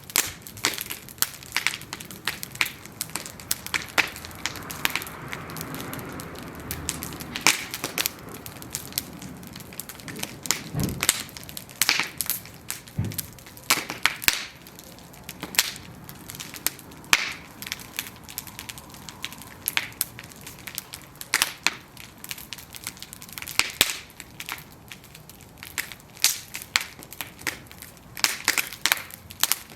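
Bonfire of burning wooden planks crackling and popping in sharp, irregular snaps, with a soft rush of flame swelling a few seconds in and two dull low thumps near the middle.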